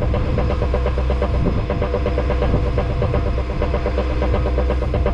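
The sailboat's inboard engine running steadily under way, a low hum with a fast even pulse.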